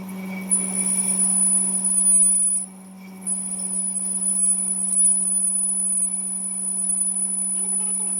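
Steady machine hum with a constant high-pitched whine. The whine drops out briefly near the start, and the whole sound dips for about half a second a few seconds in.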